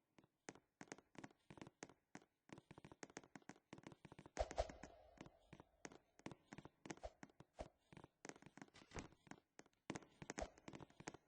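Faint, irregular tapping and clicking, several clicks a second, with one louder knock about four and a half seconds in.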